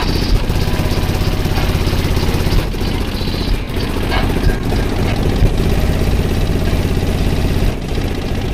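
Four B2 Audio 21-inch subwoofers playing loud, deep bass. Long held low notes break off about two and a half seconds in, come back, and break off again near the end.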